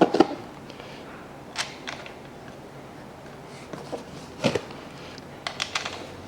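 A few scattered light clicks and clinks of steel bolts being handled and set by hand into the holes of an engine cover, with a sharper click a little after the middle and a quick cluster near the end.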